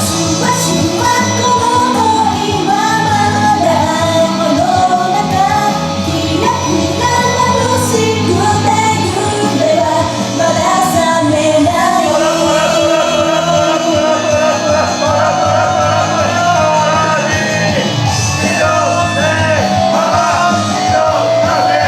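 Upbeat J-pop idol song with a woman singing the melody over a full backing track, played loud through a stage sound system.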